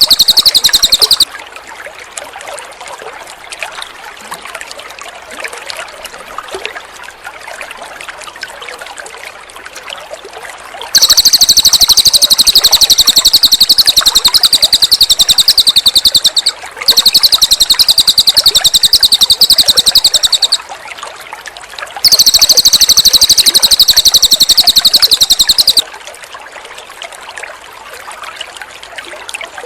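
A cililin songbird giving a fast, high-pitched trilling song in long loud bursts, briefly at the start and then three times, each several seconds long, from about a third of the way in. Soft trickling water fills the gaps between the bursts.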